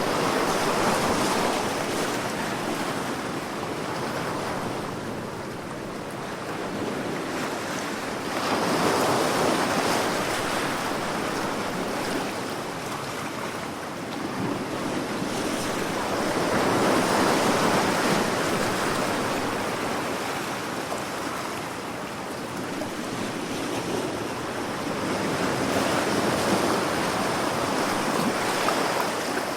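Sea waves breaking and washing ashore, swelling and fading in slow surges about every eight seconds, with a little wind.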